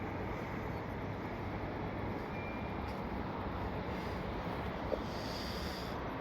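Steady rushing wind and rolling noise from riding a bicycle, with a short faint high tone about two and a half seconds in.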